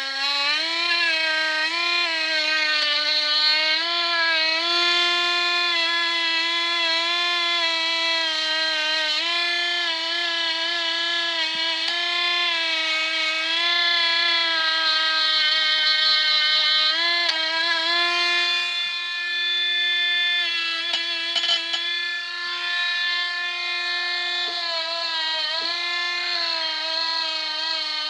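Parkside cordless multi-grinder running a polishing disc on brass, a steady high-pitched motor whine whose pitch wavers slightly as the disc is worked against the metal.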